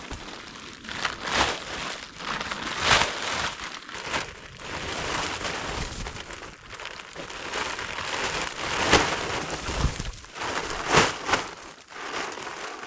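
Rustling and crunching handling noise, with several louder crunches coming irregularly every second or few.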